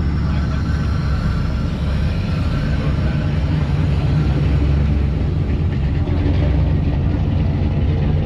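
A truck's engine running, a steady low rumble.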